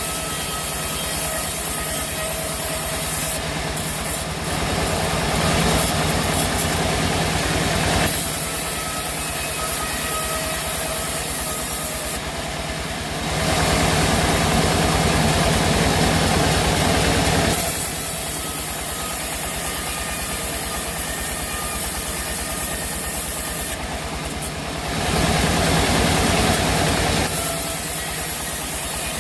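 Sawmill machinery running steadily with a constant low hum. It swells three times into louder, noisier stretches lasting a few seconds each: about five seconds in, midway, and near the end.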